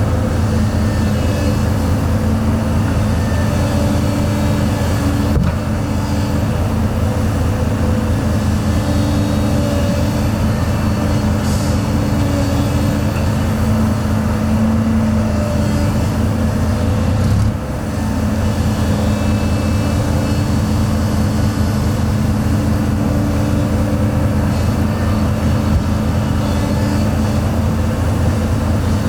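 Heavy diesel engine of construction machinery running steadily, with a fast even low throb. The level dips briefly about seventeen seconds in.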